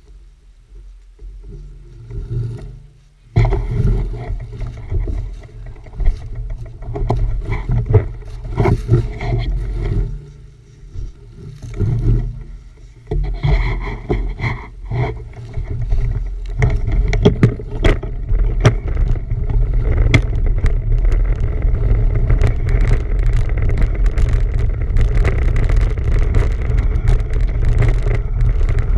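Wind rumbling on the microphone of a camera carried on a moving bicycle, with rattles and knocks from bumps. It starts suddenly a few seconds in, is uneven at first, and becomes steadier and louder in the second half.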